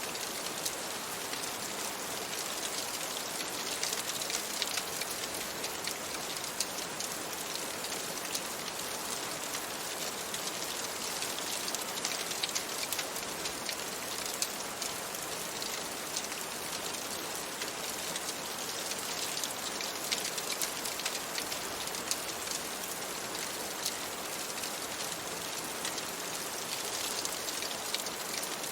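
Steady rain ambience mixed with a crackling wood fire: an even rain hiss with short, sharp crackles scattered through it.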